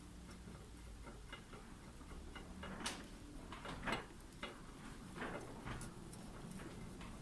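A bicycle wheel hub's bearing cone being threaded and turned onto the rear axle by hand: faint, irregular small clicks and ticks of parts working together, the loudest about three and four seconds in.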